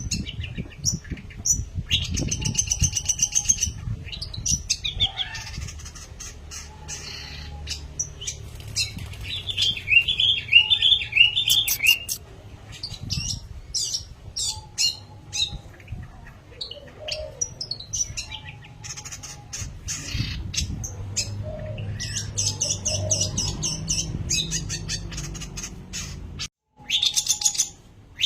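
Long-tailed shrike (pentet) singing persistently: a varied run of sharp chirps, rapid trilled phrases and clicks, over a low rumble, broken by a brief dropout near the end.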